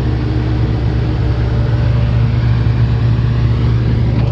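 Komatsu PC450LC-8 excavator's six-cylinder diesel engine running steadily at idle, a constant low hum.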